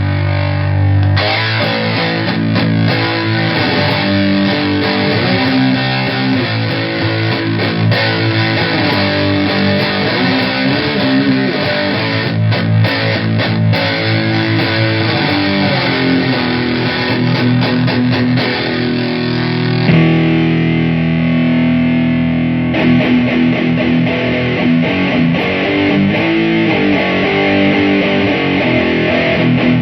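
Electric guitar played with heavy fuzz distortion through a solid-state amp head and 4x12 cabinet, sustained low riffing and held chords. The tone changes abruptly about 20 seconds in, then the playing picks up again a few seconds later.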